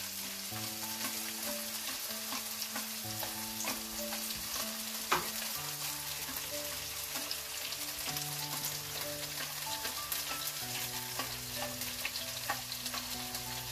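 Chopped onions frying and sizzling in oil in a pan as canned tomato purée is shaken in, with a few light knocks and one sharper one about five seconds in. Soft background music with held notes plays underneath.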